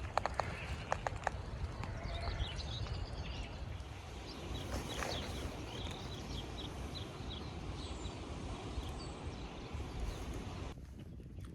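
Small birds chirping and singing in short, high calls over a steady low wind rumble on the microphone, with a few sharp clicks in the first second or so.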